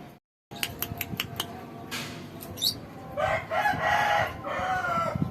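Caged lovebirds chirping, with a quick series of sharp clicks and a short rising whistle early on, then a louder harsh call lasting over a second in the middle.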